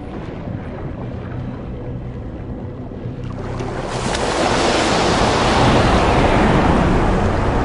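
Sea water rushing and surging at the surface, swelling about halfway through into a loud, steady rush. Faint background music underneath.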